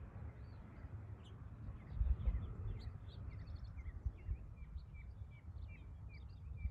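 Several birds chirping and singing, with a brief rapid trill about three seconds in, over a low uneven rumble that swells about two seconds in.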